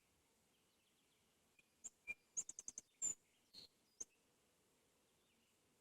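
Near silence, broken between about two and four seconds in by a quick run of faint, short, high-pitched clicks and chirps.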